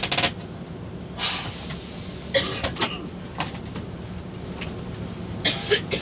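Mercedes-Benz double-decker coach heard from on board with a steady low drone. About a second in there is a short hiss of air, typical of the air brakes. Several sharp clicks and knocks come near the start, about halfway through and near the end.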